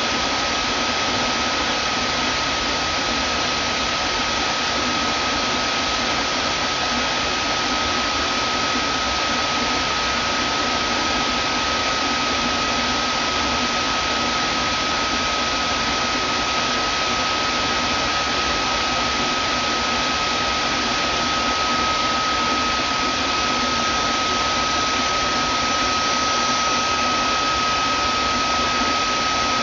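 Vacuum cleaner motor running steadily: an even whooshing rush of air with a constant high whine.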